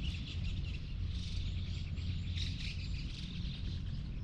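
Outdoor background: a steady, busy high chirping from wild birds or insects over a constant low rumble, with no meowing.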